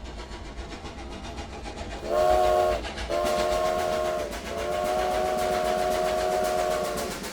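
A train drawing closer, its rumble and rhythmic clatter growing louder, then its whistle blowing three times: two shorter blasts and a long one, each a chord of several tones.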